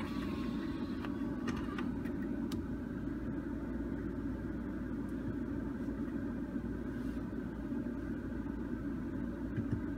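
A BMW F30 3 Series idling in park, heard from inside the cabin as a steady low rumble.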